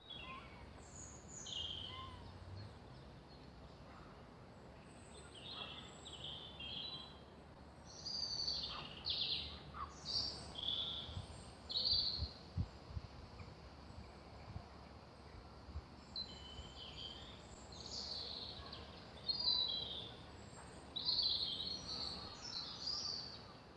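Songbirds singing in short, repeated high phrases, busiest in the middle and again near the end, over a steady low background hum.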